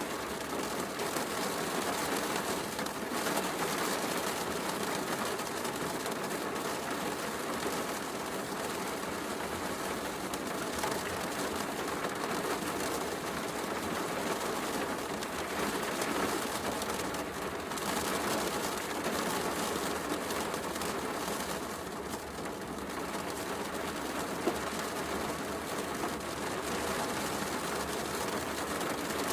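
Steady heavy rain mixed with a fireplace crackling, with one sharp pop about three quarters of the way through.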